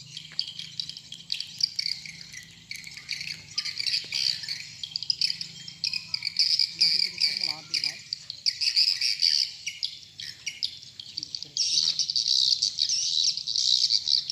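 Dense, continuous high-pitched twittering chirps of swiftlets, growing louder near the end, over a steady low hum.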